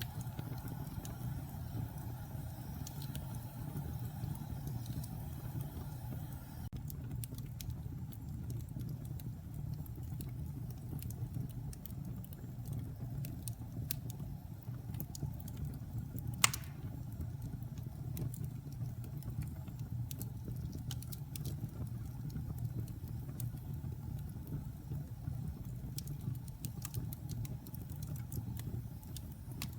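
Log fire burning in a fireplace: a steady low rumble with scattered light crackles, and one loud pop about halfway through.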